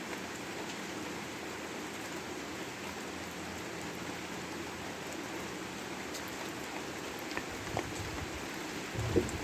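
Steady rain falling, an even hiss. Near the end come a few louder separate drips and one dull thump, the loudest moment.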